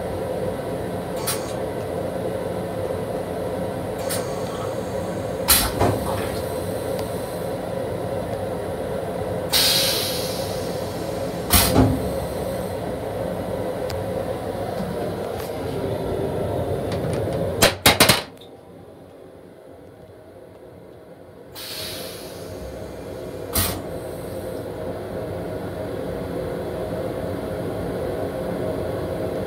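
Steady running rumble and hum inside the restroom of an LIRR M7 electric railcar, broken by several sharp knocks and rattles. About 18 seconds in, the sound drops suddenly much quieter for about three seconds, then the rumble returns.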